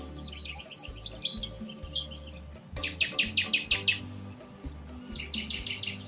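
Small birds calling: scattered chirps, a quick run of about seven sharp notes about three seconds in, and about five more near the end. Under them runs soft background music with held low notes.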